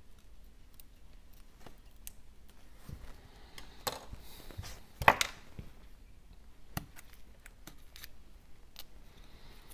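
Scattered small clicks and taps of hand repair tools working on an opened iPhone 12's internals while its flex cables are disconnected, the loudest cluster about five seconds in.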